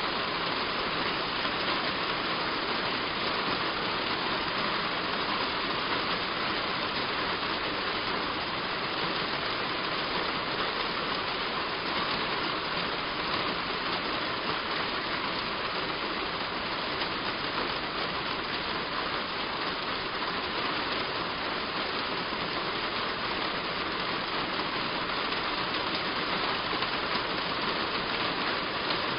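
Heavy rain falling on a roof: a steady, even hiss with no letup.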